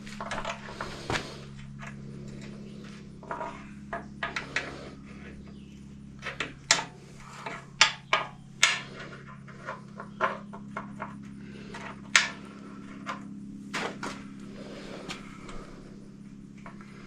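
Scattered clicks and knocks of hand tools on metal parts as a tractor's hydraulic lift fittings are worked by hand, with a steady low hum underneath.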